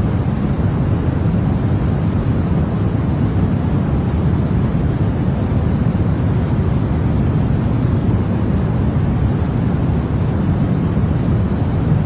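Continuous sleep noise of the kind sold as white noise for babies: a steady, even rush weighted toward the low end, deeper than true white noise, with no changes.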